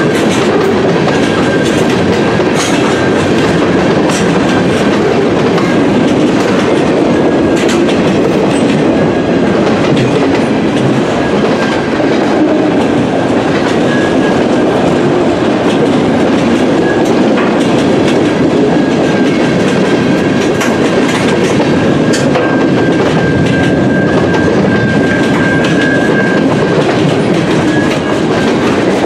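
Freight cars of a long mixed freight train rolling past close by: a loud, steady rumble and rattle of steel wheels on rail, with scattered clicks over rail joints. A thin, steady high-pitched tone runs through it.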